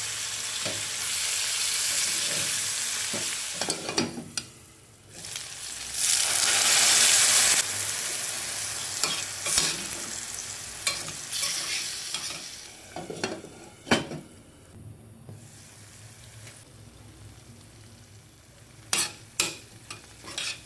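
Potato slices and chopped tomatoes sizzling in hot oil in a stainless steel pot while being stirred with a spatula and spoon, with scrapes and clinks against the pan. The sizzle is loudest in the first eight seconds and dies down through the second half, leaving a few sharp scrapes near the end.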